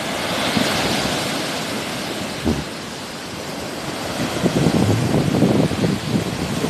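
Sea waves washing ashore, a hiss that swells about half a second in and then ebbs, with wind buffeting the microphone in low, uneven gusts that grow stronger in the second half.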